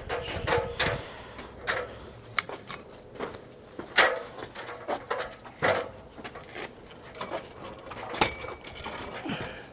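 Irregular clicks and clacks of metal tools and bicycle parts being handled during cable and handlebar work, about a dozen separate knocks, the loudest about four seconds in.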